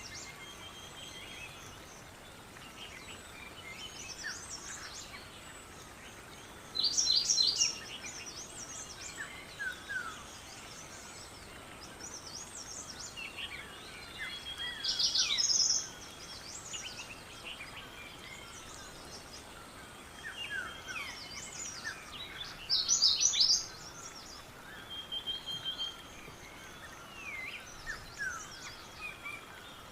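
Birdsong: a loud, short, high-pitched song phrase comes about every seven to eight seconds, with softer chirps from other birds between, over a faint steady outdoor hiss.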